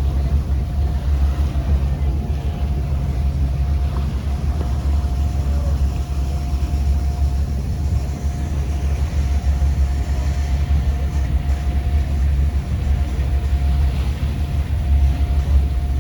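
A boat's engine running steadily, heard on board as a continuous low rumble with a faint steady whine above it.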